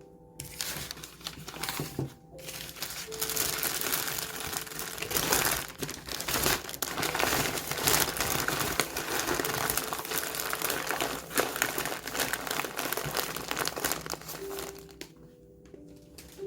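Paper or plastic wrapping being crumpled and handled, a continuous crinkling that goes on for about fourteen seconds and stops near the end.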